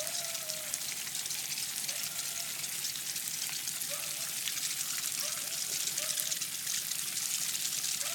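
Water running and trickling steadily as a bike is rinsed off.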